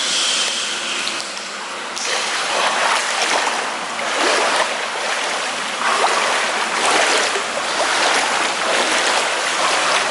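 Water running and splashing in uneven surges, the kind of sound made around a hot-spring bath.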